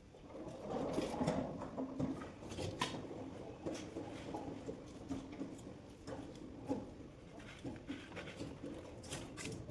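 Irregular light knocks and clicks of hand work, parts and tools being handled, over a low background murmur.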